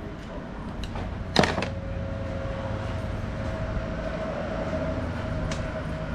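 Workshop noise: a single sharp clank about a second and a half in, then a steady mechanical whine over a low hum.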